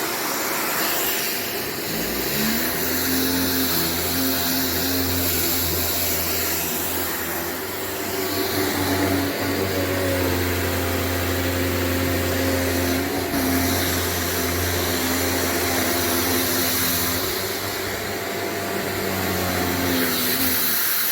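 Shark NZ690UKT corded upright vacuum cleaner (750 W) running on its carpet power setting over carpet: a steady rush of air with a low hum that climbs in pitch about two seconds in, then holds steady until near the end.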